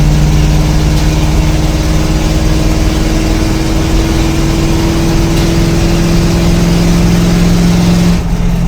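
K5 Blazer's 6.2-litre V8 running loud through true dual open headers with no mufflers, a steady low note. The engine speed creeps up slightly and drops back near the end.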